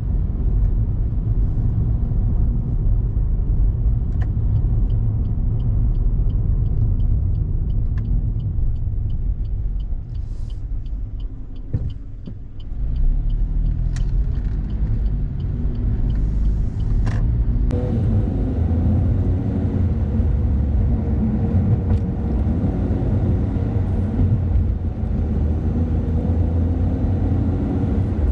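Car driving on a road, with a steady low rumble of engine and tyres. It eases off and goes quieter about 10 to 13 seconds in, then the engine pitch rises as it speeds up again and settles into a steady drone. A faint regular ticking, about two a second, runs through the first half.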